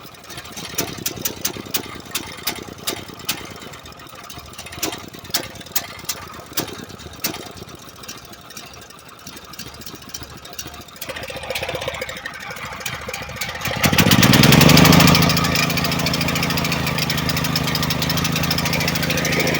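Small gasoline engine: scattered irregular clicks and knocks for about ten seconds, then the sound builds, surges loudly at about fourteen seconds and settles into steady running.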